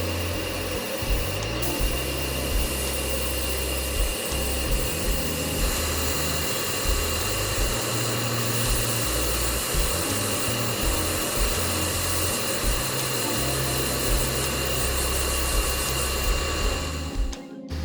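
Paint-spraying equipment running steadily, a hiss with a thin high whine, that cuts off sharply near the end. Background music with a steady beat plays underneath.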